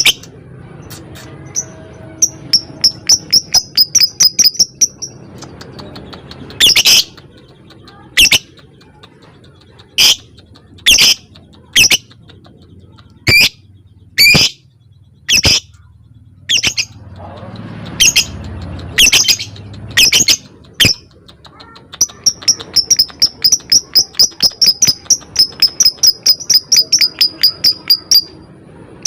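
Lovebird calling: fast runs of short, high ticking chirps at about four to five a second, broken by loud, harsh single shrieks. This rapid ticking chatter is what keepers call "ngetik".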